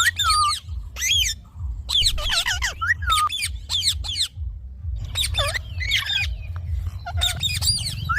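Indian ringneck parakeet giving rapid runs of short, shrill squawks in quick bursts, with a brief pause about halfway, over a steady low rumble.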